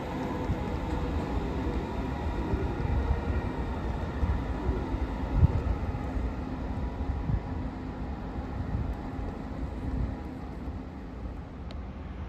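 Train passing on the tracks: a steady low rumble with faint steady tones over it, one sharp knock about five seconds in, easing off near the end.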